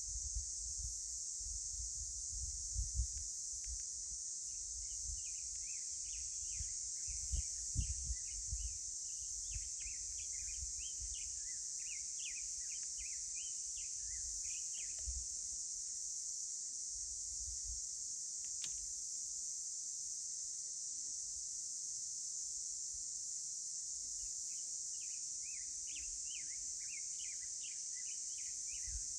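Natural canyon ambience: insects keep up a steady high drone throughout, while small birds chirp in quick runs through the first half and again near the end. A few low rumbles come in the first several seconds.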